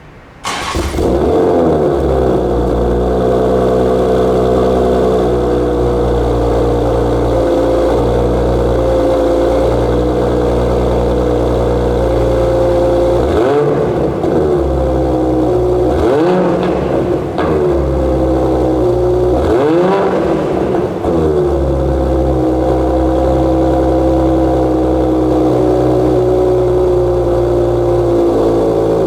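2020 Toyota Supra's B58 turbocharged inline-six, through a Borla ATAK cat-back exhaust with the stock cats, starting up and settling into a steady idle. A handful of quick throttle blips rise and fall between about 13 and 21 seconds in, then it returns to idle.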